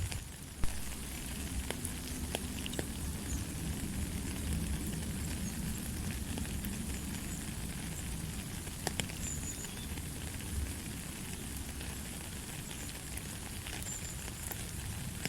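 Steady light rain falling, with scattered drops ticking and a low rumble underneath. One sharp tick stands out about half a second in.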